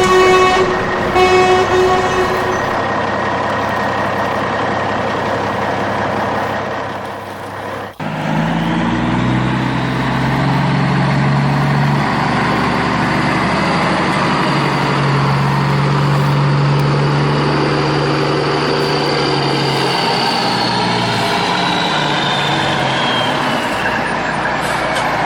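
Remote-control toy dump truck: two short horn toots at the start, then, after a sudden break about eight seconds in, a steady engine-like drone that steps up and down in pitch, with a faint high whine falling away near the end.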